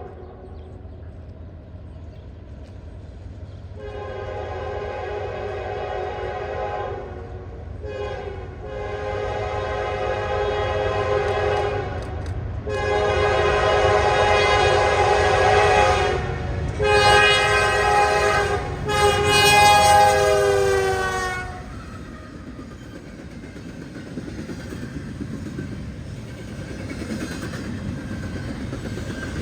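Locomotive multi-note air horn sounding a series of long blasts with brief gaps as the train approaches, the chord dropping in pitch on the last blast as the locomotive passes. A low rumble of the train runs underneath and continues after the horn stops.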